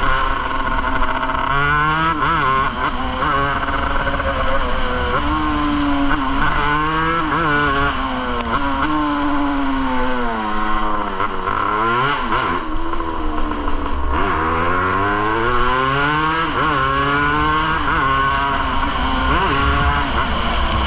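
Yamaha DT200's two-stroke single-cylinder engine revving up and dropping back over and over as the bike accelerates through the gears and slows, with a steady low wind rumble on the microphone.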